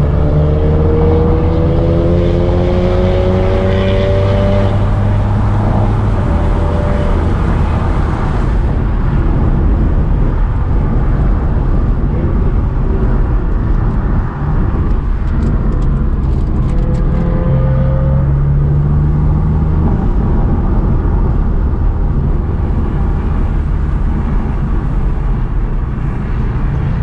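Car engine pulling hard under acceleration, its pitch climbing over the first few seconds, then running on steadily with road noise, and climbing briefly again around the middle.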